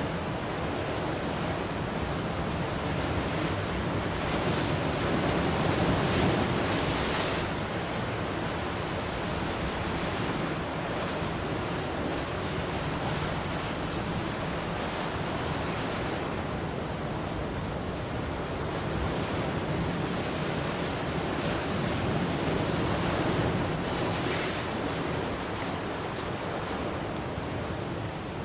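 Ocean waves breaking and washing on the shore in a steady surf roar, swelling louder twice, about 6 seconds and 23 seconds in.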